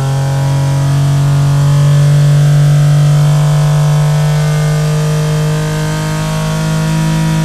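Porsche 3.5-litre air-cooled flat-six engine with carburettors, running under full load on an engine dyno, its revs climbing steadily from about 5,400 to 6,200 rpm with a slowly rising pitch.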